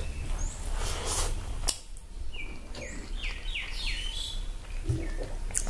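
Mouth noises of eating by hand: soft smacking and chewing of rice with pork gravy. A bird chirps a quick run of about five falling notes in the background near the middle.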